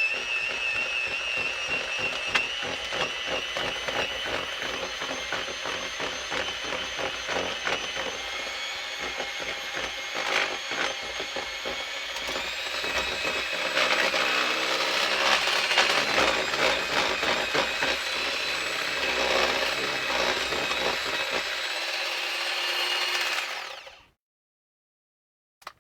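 Small electric mixer motor running steadily as it stirs glue-based scenery goop, its whine rising a little about halfway through, then cutting off suddenly near the end.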